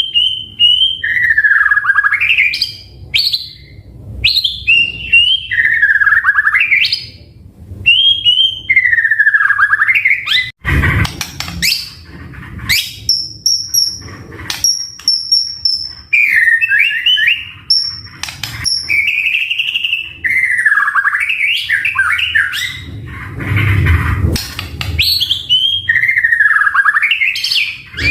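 White-rumped shama (murai batu) singing loudly: a string of swooping, dipping phrases repeated about every two seconds, with a run of high thin whistles around the middle and a few sharp clicks.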